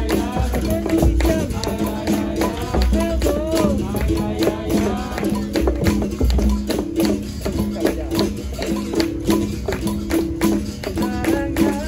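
Capoeira roda music: a berimbau repeating its two-note pattern over and over, with the rattle of a caxixi, pandeiro jingles and strikes, and low atabaque drum beats, under people singing.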